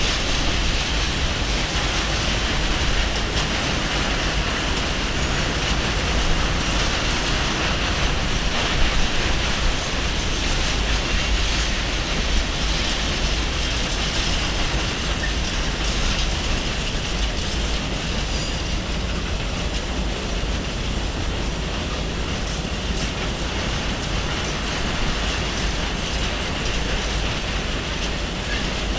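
A train passing on the line, its wheels running on the rails with a steady, continuous noise.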